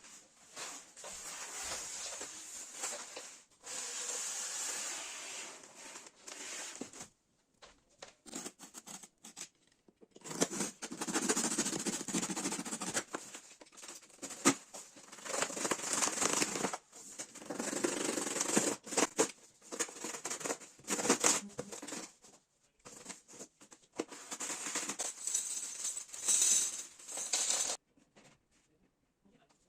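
Handling noises: rustling and clattering in bursts a few seconds long, with many short sharp clicks, stopping about two seconds before the end.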